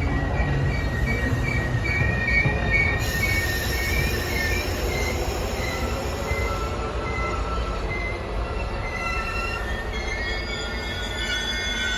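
Train running with a low rumble and high-pitched wheel squeal in several tones, the squeal pulsing in short repeated bursts for the first few seconds and then holding longer, shifting notes.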